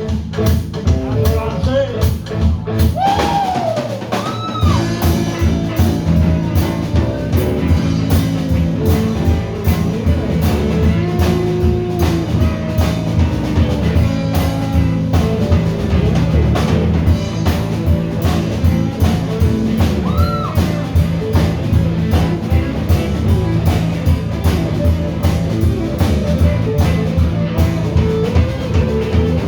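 Live rock band playing at a steady driving beat, with drum kit and electric guitar, and a few sliding guitar or vocal notes.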